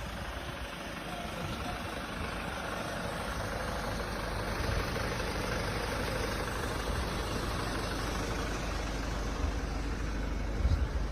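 An engine running steadily, with louder low rumbling swells near the end.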